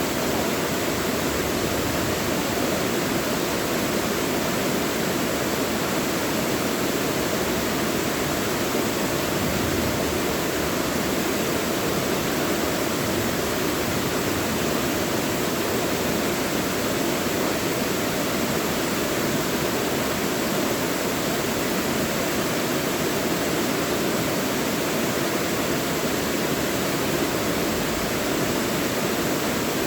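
Mountain valley stream flowing steadily: an even, unbroken wash of water noise.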